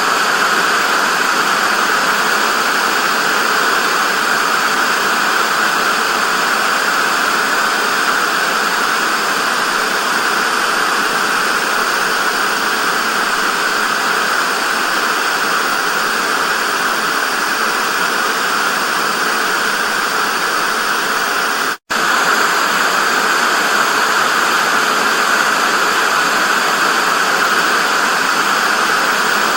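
Television static: a steady, even hiss, strongest in the mid range. It drops out for a split second about three quarters of the way through, then carries on unchanged.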